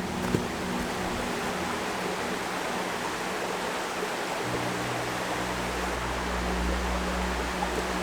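Steady rushing noise with low sustained tones underneath, which shift lower about halfway through.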